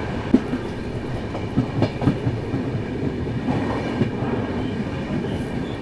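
Indian Railways express train coach running on the track, a steady rumble with irregular clacks and knocks as the wheels pass over rail joints and points while the train pulls into a station.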